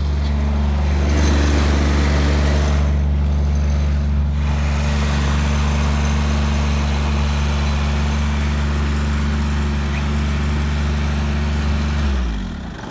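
Tractor engine running steadily, then shut off near the end, its pitch sagging as it winds down to a stop.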